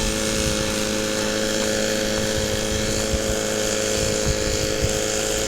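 Small gas engine of a gold-prospecting dry washer running at a steady pitch.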